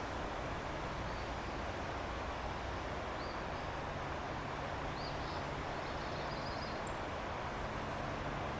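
Steady rushing of water, with a low steady hum under it and a few faint, short high bird chirps about three to six seconds in.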